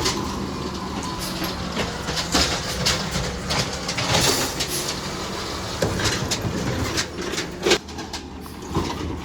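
Garbage truck working: its engine runs steadily under a series of irregular clanks and knocks, the sharpest about three-quarters of the way through.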